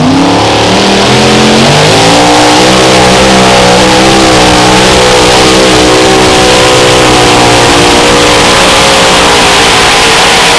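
Mini rod pulling tractor's engine at full throttle during a pull, very loud. It climbs in pitch over the first second or two, then holds high with a slight waver in revs.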